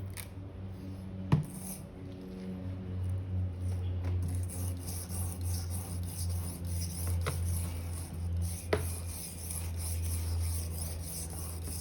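A 10 cm Victorinox paring knife stroked back and forth on a 1500-grit whetstone, a rhythmic scraping hiss that raises a burr on the edge. A steady low hum runs underneath, and there is a sharp click about a second in.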